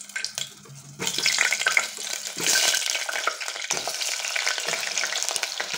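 Potato chunks dropped into hot mustard oil in an aluminium pressure cooker, frying with a crackling sizzle. The sizzle starts about a second in and gets louder as more pieces go in.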